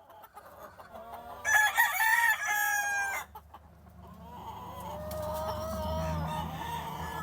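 Gamefowl rooster crowing: one loud, drawn-out crow about a second and a half in, followed by a quieter, lower, longer call in the second half.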